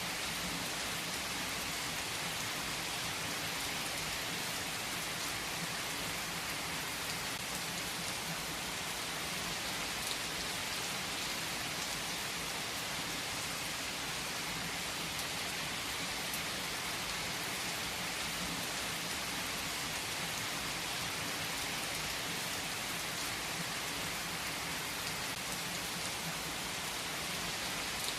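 Steady rain falling, a dense even hiss with a few faint scattered ticks of drops.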